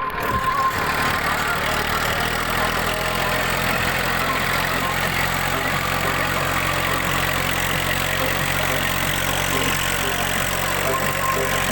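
Tractor engine running steadily at a constant low speed, a deep even drone with no revving.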